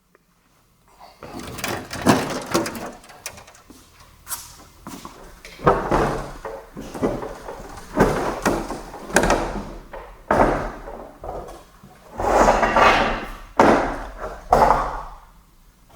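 Irregular knocks, rattles and scrapes of metal parts and tools being handled, some lasting a second or two.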